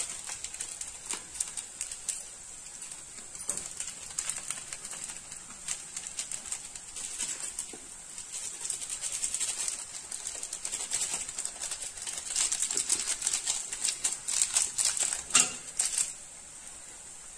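Onion, capsicum and spices frying in oil in a stainless steel kadhai: a steady sizzle with many small crackles and pops, busier in the second half.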